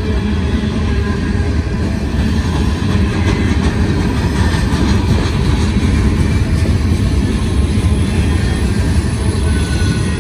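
Mixed freight train's cars rolling past over the rails with loud, steady wheel-on-rail noise.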